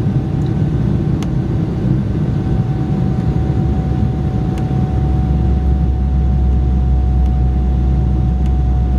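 Steady cabin noise of an Embraer 190 climbing after takeoff: its GE CF34-10E turbofans running with a deep rumble and a steady thin whine, the rumble growing slightly stronger about five seconds in.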